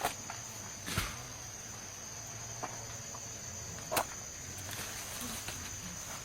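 Insects chirring in one steady high-pitched drone, with two sharp knocks, one about a second in and one about four seconds in.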